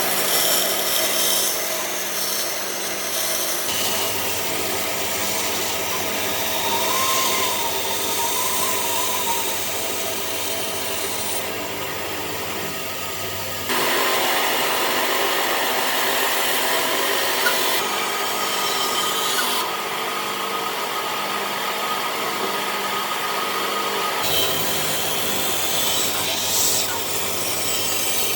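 Woodworking tools working wood, a steady machine-and-wood noise with faint steady tones underneath. The sound changes abruptly about 4, 14 and 24 seconds in, as separate clips are cut together.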